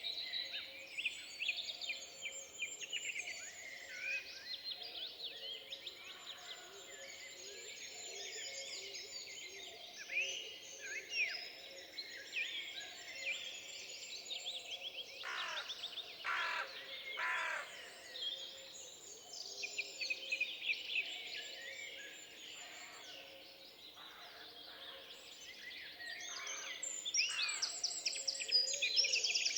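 Forest songbirds singing over one another: many quick trills, chirps and whistled phrases overlapping throughout, over a faint steady background hiss. A few louder phrases come about halfway through, and the singing grows busier and louder near the end.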